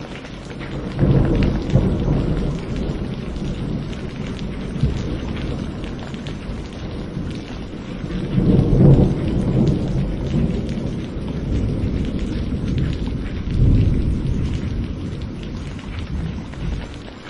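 Rolling thunder over steady rainfall. The deep rumble swells in about a second in, peaks strongest around the middle, peaks again a few seconds later, then dies away near the end, leaving the rain hiss.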